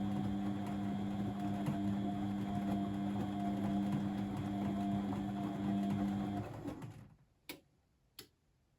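Blomberg WAF 7442 SL washing machine running with a steady hum, which stops about six and a half seconds in. Two sharp clicks follow, about half a second apart.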